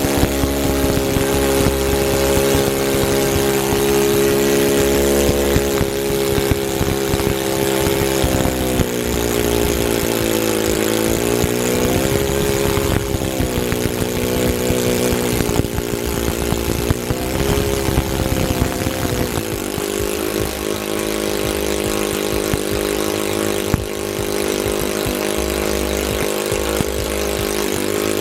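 Saito FA-40 four-stroke model aircraft glow engine running on the bench after years of not running, its speed wandering: it sags and surges about a third of the way in, then settles to a steadier note for the last third. The uneven running shows it is not yet tuned, with its high and low needles still being adjusted.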